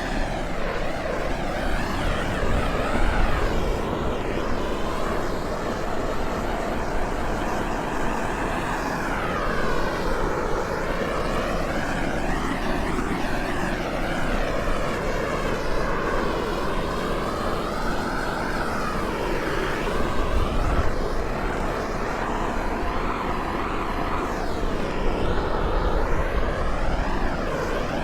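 Steady roar of a gas torch flame warming a cold refrigerant tank to raise its pressure enough for charging, its tone slowly sweeping up and down.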